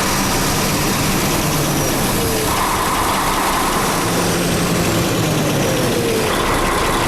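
KAMAZ 5490 truck's Mercedes OM457 inline-six diesel engine running, with the throttle worked. It has a ticking knock, 'chik-chik-chik', that comes on as the throttle is released. The owners take it for a seized roller on a valve tappet rubbing against the camshaft instead of rolling.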